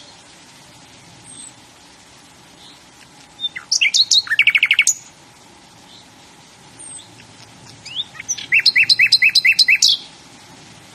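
A bird singing: twice, a phrase of about a second and a half made of rapid repeated high notes, with faint chirps in between.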